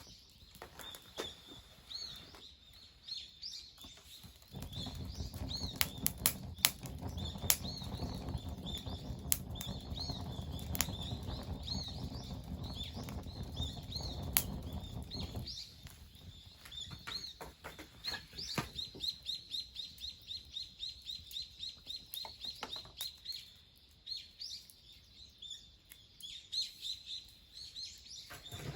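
Small birds chirping repeatedly in short high calls. From about four seconds in until about halfway through, a dense low rustle runs underneath, with sharp clicks.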